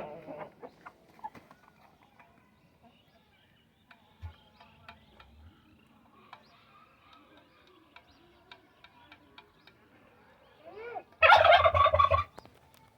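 Domestic turkey gobbling once, loud and about a second long, near the end. Before it, only faint bird calls and small clicks.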